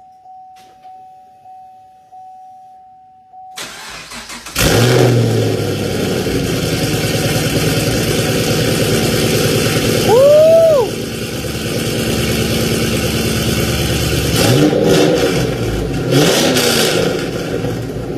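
A 2010 Chevrolet Camaro with an MPP aftermarket exhaust cold-starting. A steady electronic tone sounds, then the starter cranks for about a second, and the engine catches loud and settles into a fast cold idle. A short rising-and-falling whine comes in the middle, and near the end the engine briefly rises in pitch twice.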